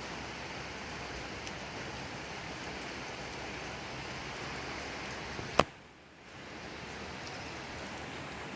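Steady rainfall at night, an even hiss of falling rain. A little over halfway through, a single sharp click is followed by a brief dip in the rain sound before it returns.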